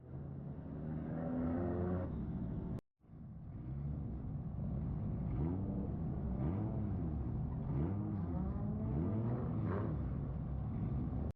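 Car engines revving on a drift track, the pitch climbing and dropping over and over. The audio is two clips cut together, with a brief silent gap about three seconds in.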